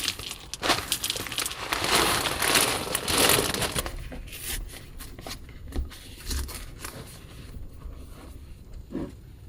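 Close crinkling and rustling, like something being crumpled or handled, loud for about the first four seconds, then quieter with scattered light clicks and taps.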